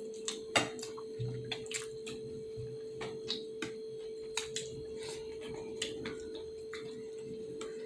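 Close-up eating sounds of momo dumplings being chewed: irregular wet mouth clicks and smacks, the sharpest about half a second in, over a steady faint hum.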